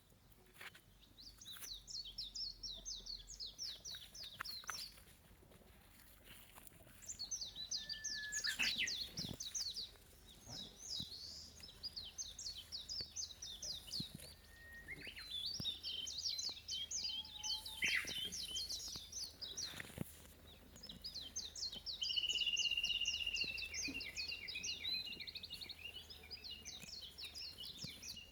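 A songbird singing outdoors: repeated phrases of rapid, high trilled notes, each phrase lasting a few seconds, with short pauses between them. A few faint clicks are heard under the song.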